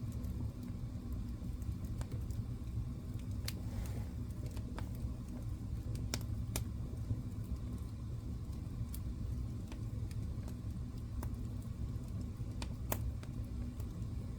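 Wood fire burning in a fireplace: a steady low rumble of flames with sharp crackles and pops every second or two.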